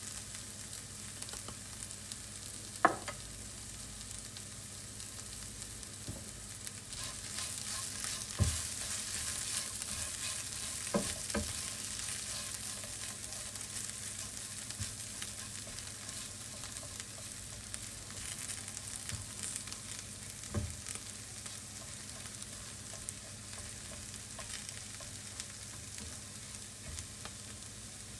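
Diced potatoes and red bell pepper sizzling in oil in a nonstick frying pan, with a steady hiss, while a spatula stirs them and pushes them aside. The spatula knocks sharply against the pan a few times, loudest about three seconds in.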